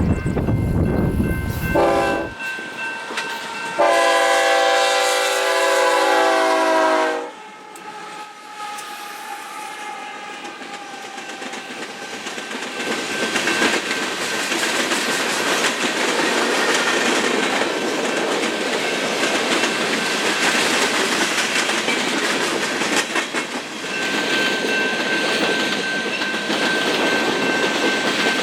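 A loud low rumble cuts off about two seconds in, then a locomotive air horn sounds one long chord of about three and a half seconds. After a short lull the train's wheels come by on the rails, building to a steady rumble and clatter with a thin high steady ring over it.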